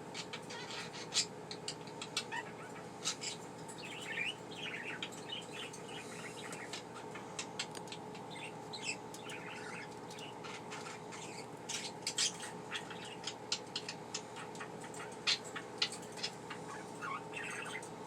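Budgerigar chattering on and on: a steady stream of quick clicks, chirps and warbles. A faint steady hum runs underneath.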